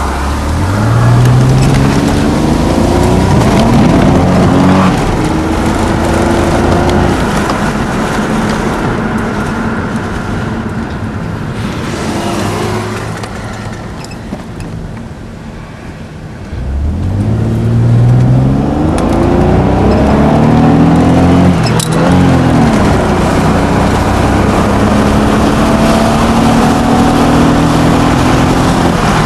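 Chrysler Sebring's Mitsubishi 2.5-litre 24-valve V6 accelerating hard, its pitch climbing steeply near the start and again just past the middle. It eases off and goes quieter in between.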